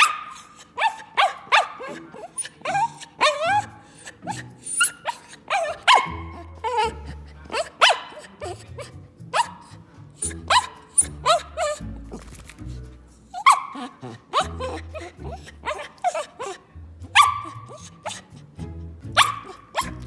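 Poodle barking again and again, sharp barks coming one or two a second with a short pause near the middle, over background music with a low bass line.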